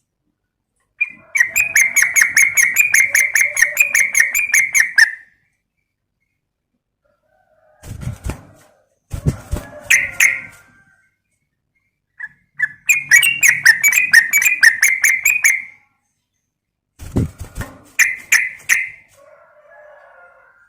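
Yellow-vented bulbul (trucukan) singing in bursts: two long, rapid, pulsed trills, with shorter harsh chattering phrases between them.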